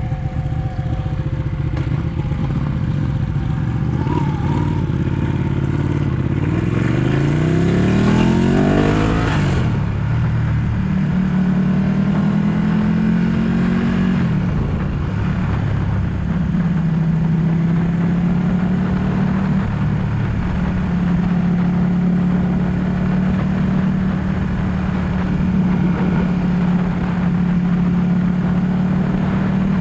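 Ducati 1199 S Panigale's V-twin engine under way. It runs steady, then revs up hard for about three seconds, the revs dropping sharply just before ten seconds in. It then holds a steady cruising note with small changes in pitch.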